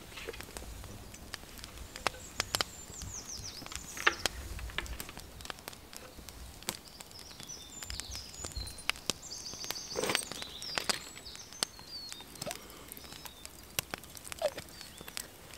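Songbirds singing in woodland: a falling trill about three seconds in and a run of quick high notes around ten seconds, over scattered sharp clicks and knocks.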